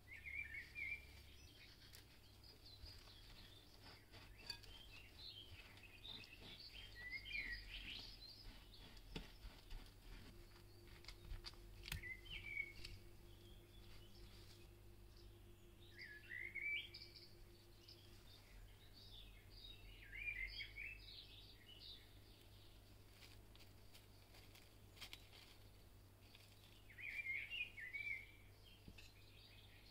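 Faint bird chirps in scattered short bursts over a quiet background, with a few light clicks.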